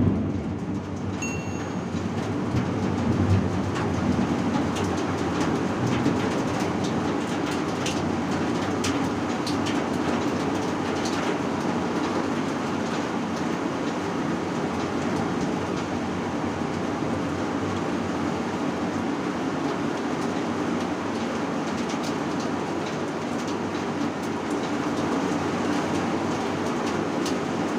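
Heavy rain falling, a steady rushing downpour with a low rumble.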